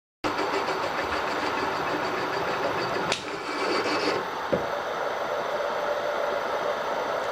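Milling machine running with a steady mechanical whir that starts suddenly just after the start. There is a sharp click about three seconds in and a short knock about a second and a half later.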